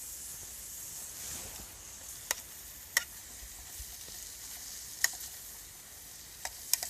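Diced bacon sizzling in hot oil in a pot on a Trangia spirit stove, a steady frying hiss with a few sharp clicks now and then.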